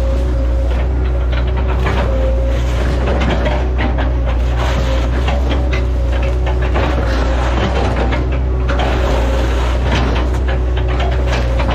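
Diesel engine of a Hitachi ZX110 excavator running steadily under hydraulic load, with irregular cracking and crunching as oil palm wood is chopped.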